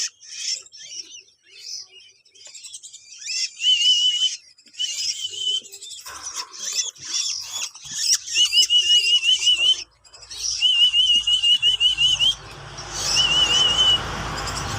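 Songbird chicks calling with shrill, rapid chirps. Over them come several bouts of a high wavering trill, each lasting a second or two. A low rumble joins near the end.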